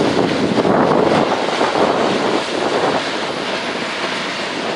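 Passenger train rolling past, a steady rumble of wheels on rail, easing off a little after about three seconds.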